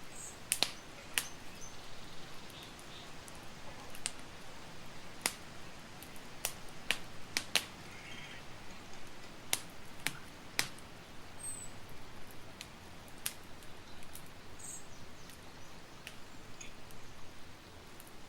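Campfire crackling: irregular sharp pops and snaps from burning wood over a steady soft hiss.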